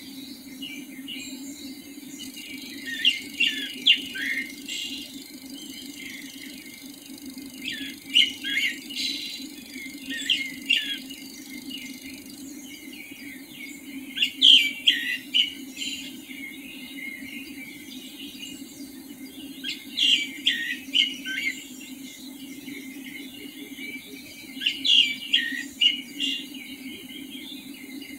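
A bird singing short phrases of several quick high notes, each phrase lasting a second or two and repeating about every five to six seconds, over a steady low hum.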